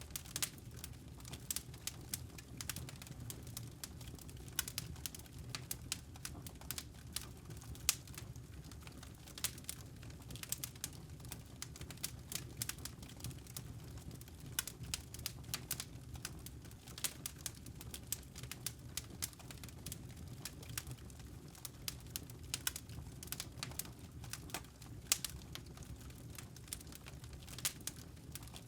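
Campfire burning: wood crackling with many irregular sharp pops over a low steady rumble.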